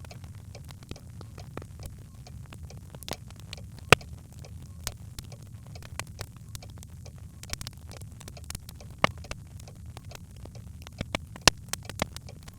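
Birchwood fire burning in a hearth: a steady low rumble of the flames with irregular crackles and sharp pops, a few of them louder, about four seconds in, near nine seconds and several toward the end.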